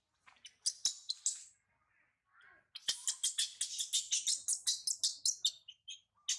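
Small bird chirping in quick, high-pitched series: a short burst about a second in, then a fast run of about six chirps a second lasting nearly three seconds. Two sharp clicks come along with them.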